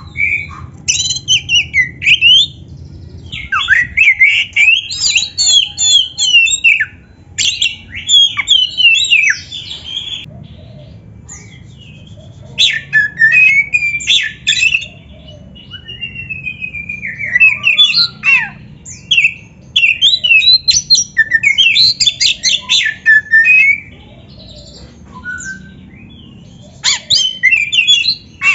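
An Oriental magpie-robin (kacer) sings a rapid, varied run of whistles, trills and harsh chattering notes. The phrases come in dense bursts with pauses of a second or two between them, over a steady low background noise.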